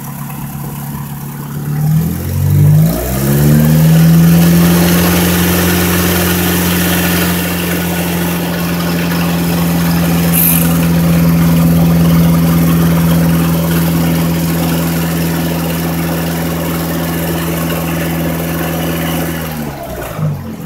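1989 Honda Accord's four-cylinder engine revved up from idle about two seconds in, held at a steady higher speed, then dropping back toward idle near the end.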